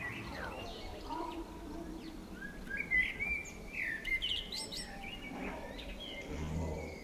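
Songbirds singing: a run of quick high chirps and whistled notes sweeping up and down, loudest a few seconds in.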